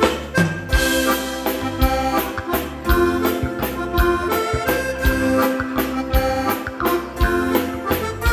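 Instrumental passage of a bailão dance-band waltz between sung verses: accordion carrying the melody over a steady waltz beat.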